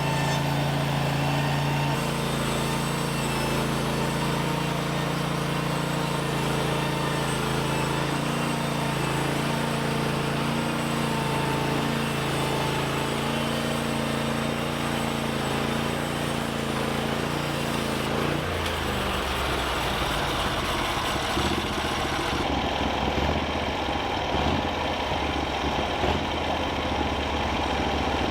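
An engine running steadily with an even hum, changing about 18 seconds in to a rougher, more rattling sound.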